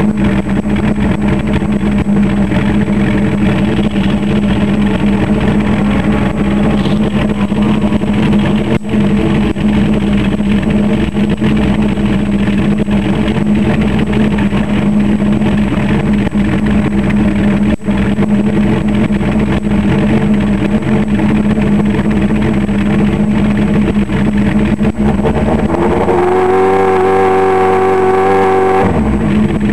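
Suzuki GSX-R1100 inline-four motorcycle engine running at a steady, constant pitch. Near the end the pitch climbs sharply for about three seconds, then drops back.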